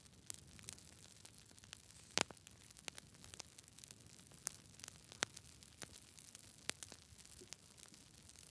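Campfire burning, wood crackling and popping in irregular sharp snaps over a faint low hiss, with one louder pop about two seconds in.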